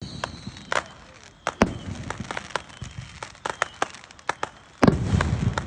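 Fireworks going off: a quick, irregular string of sharp pops and cracks, with one louder, deeper boom and a short rumble near the end.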